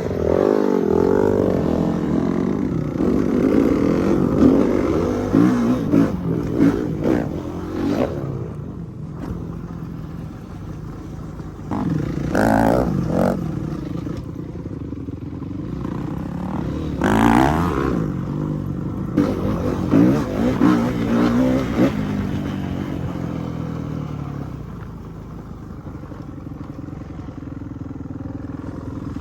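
Dirt bike engines revving up and down as the bikes are ridden, the pitch rising and falling with the throttle. There are louder revs about 12, 17 and 20 seconds in.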